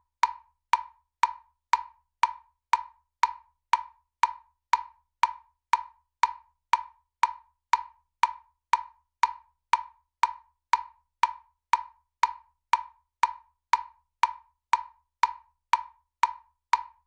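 Metronome clicking at a steady tempo of about two clicks a second, every click alike and unaccented.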